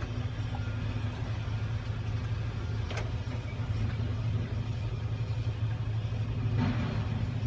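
CAT 323 excavator's diesel engine idling steadily, with a single sharp click about three seconds in.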